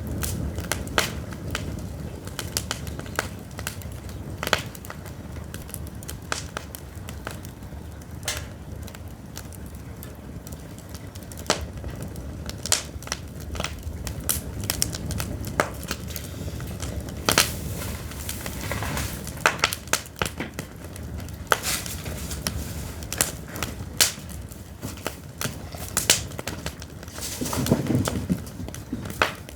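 Pine firewood burning in an open fire, crackling with sharp pops at irregular intervals over a low, steady rumble of flame.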